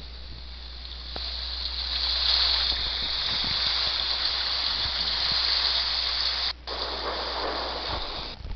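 Recorded rain sound, a steady hiss of rainfall, that swells about a second in, cuts out for a moment about six and a half seconds in, and stops abruptly near the end.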